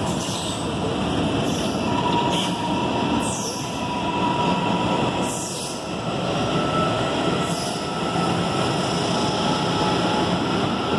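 Electric commuter trains running through the station: a steady rumble of steel wheels on the rails, with a faint thin whine that rises in pitch and short high hisses every second or two.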